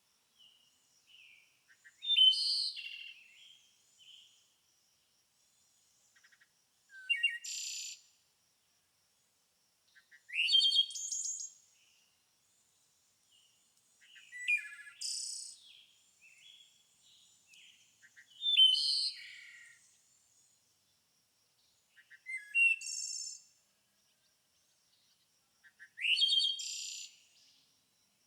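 A songbird singing the same short, varied phrase over and over, seven times at about four-second intervals, with pauses between. Each phrase opens with a rising whistled note and runs into a quick jumble of higher notes.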